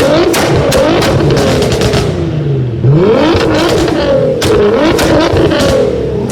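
Nissan GT-R R35 twin-turbo V6 engine being revved repeatedly while parked, pitch climbing and falling with each blip and a sharp rev about halfway through. Exhaust pops and crackles between the revs.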